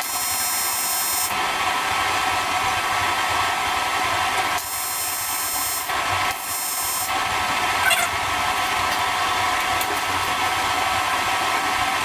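AC TIG welding arc on aluminium, a steady buzzing hiss that starts abruptly and holds, its texture changing a few times as the amperage shifts, while tack welds are made.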